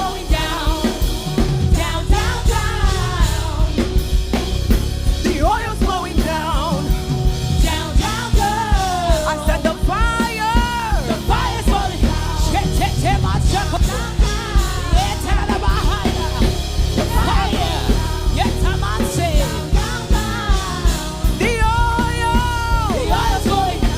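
Live worship band music with drum kit keeping a steady beat under a singer's long, sliding vocal lines.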